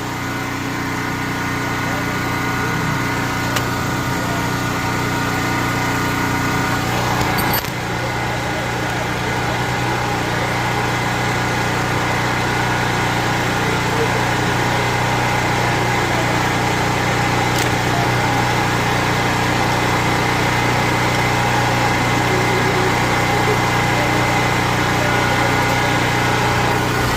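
An engine idling steadily, with a brief click or knock about seven and a half seconds in.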